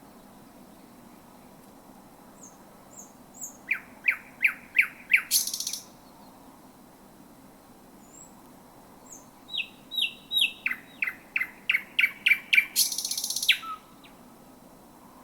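Thrush nightingale singing: two song phrases, each a run of loud, sharp repeated notes quickening into a dry rattling trill. A faint steady low noise lies underneath.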